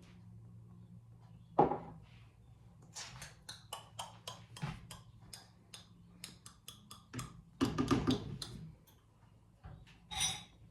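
Kitchenware clinking and knocking: a cup and utensils striking a pot and bowl, with a loud knock about two seconds in, a quick run of light clicks, a heavier clatter and a ringing clink near the end, over a steady low hum.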